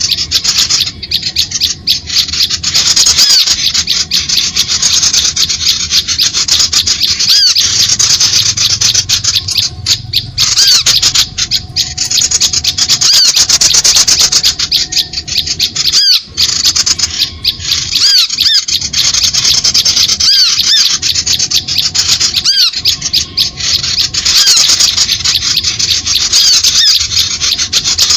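Dense, continuous chattering of many small birds: quick, high call notes layered over one another without a break. It is a bird-trapping lure call, meant to draw birds in to birdlime.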